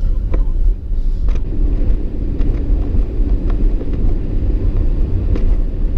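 Steady low rumble of a truck driving, heard from inside the cab: engine and road noise, with a few faint clicks.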